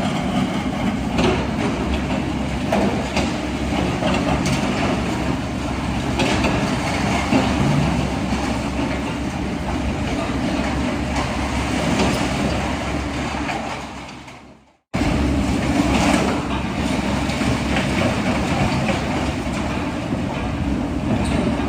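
Heavy diesel machinery such as an excavator running steadily, with scattered clanks and knocks. The sound fades out about 14 seconds in, stops briefly, and comes straight back.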